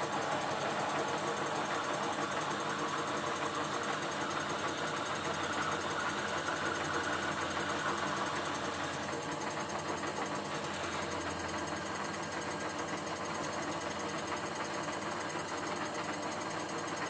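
Metal-turning lathe running steadily while it cuts the bearing seat into the hub, the motor's hum under a constant cutting noise.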